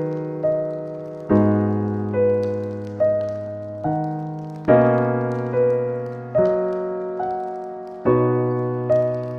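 Slow, gentle solo piano music: soft held chords with a melody note struck about once a second, each note fading away before the next.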